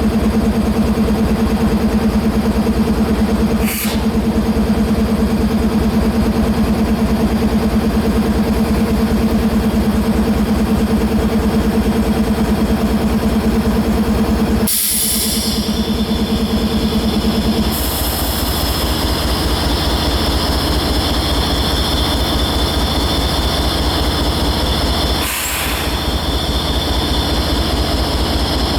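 Heavy engine running steadily with a low rumble and a steady hum; the hum stops about eighteen seconds in, and a higher whine comes in from about fifteen seconds on. Brief dropouts break the sound three times, near four, fifteen and twenty-five seconds in.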